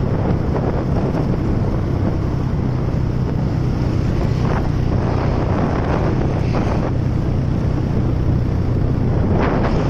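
Motorcycle engine running at a steady speed while riding, with heavy wind noise on the microphone. A few brief rushes of wind come and go along the way.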